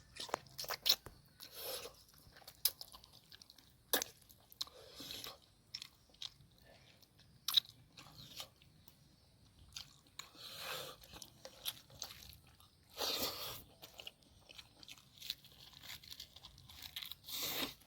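Close-up eating sounds: a person biting and chewing a meal of braised pork trotters, winged beans and mustard leaves, with sharp clicks and short noisy bursts at irregular intervals.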